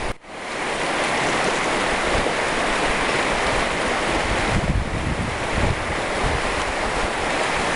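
Strong wind rushing steadily through trees, with gusts buffeting the microphone in a deep rumble about halfway through.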